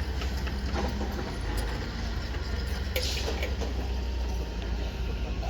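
Heavy engine running steadily with a low hum, typical of an excavator at work, with scattered light knocks and a brief hiss about three seconds in.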